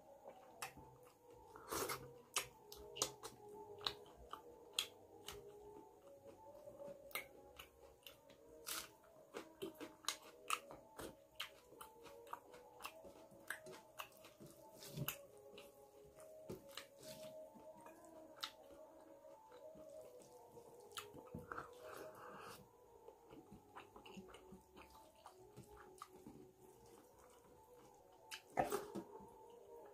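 Close-miked eating sounds: chewing and lip-smacking on mouthfuls of rice and chicken curry, with the soft squish of fingers mixing rice on a steel plate. Irregular little clicks and smacks keep coming, with a louder cluster near the end.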